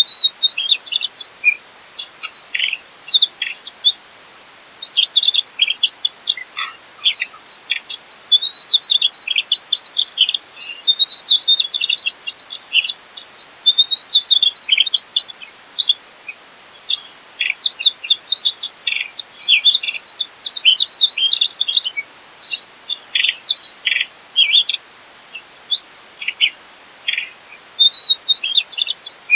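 Mugimaki flycatcher in full song: a fast, high, unbroken twittering of short chirps and trilled phrases, with brief pauses now and then.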